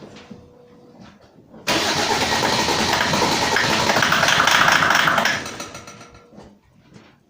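Mercedes OM606 straight-six diesel, fitted with a 603 injection pump, being started: a sudden loud burst of starter and engine noise about two seconds in that holds for about three and a half seconds, then fades away.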